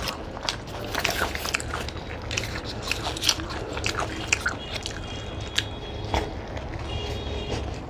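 Several people biting and chewing egg rolls, with many short sharp clicks of mouth sounds, over a steady low hum.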